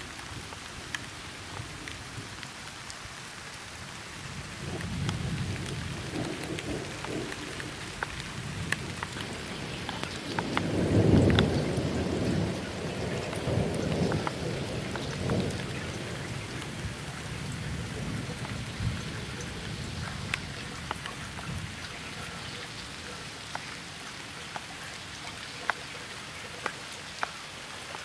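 Steady summer rain falling on grass and flowers, with individual drops ticking throughout. A roll of thunder rises about five seconds in, is loudest near the middle and dies away a few seconds later.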